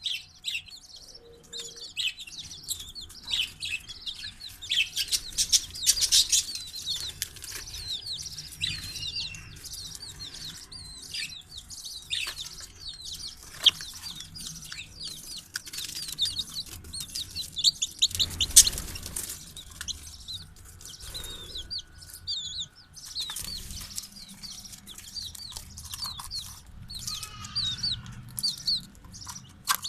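Chicks and parrots chirping together: a busy stream of short, high peeps and chirps, denser and louder at times.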